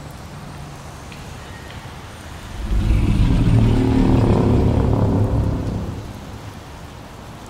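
A steady rain-like hiss, with a deep rumble that swells in about two and a half seconds in, holds for about three seconds and then fades away.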